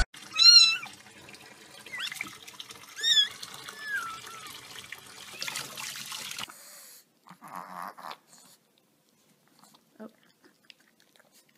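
A kitten meowing several times in high, bending cries over running tap water in a sink. The water sound stops about six and a half seconds in.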